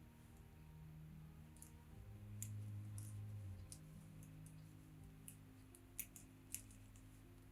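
Steel circular knitting needles clicking softly and irregularly as stitches are worked, two clicks sharper than the rest near the end, over quiet background music with low held notes.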